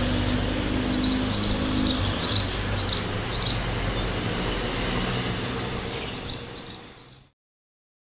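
House sparrow chirping, a run of short high chirps about two a second, pausing and then chirping a few more times, over steady road-traffic noise. The sound fades out and stops near the end.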